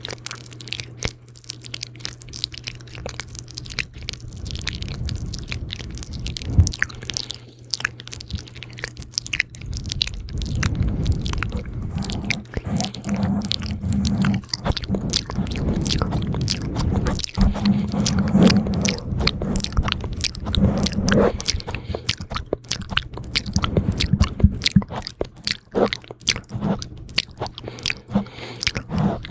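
Close-miked ASMR mouth sounds: rapid, wet, sticky clicks and smacks of lips and tongue.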